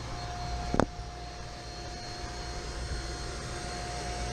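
Steady mechanical drone with a thin, steady whine running through it, and a single sharp click about a second in.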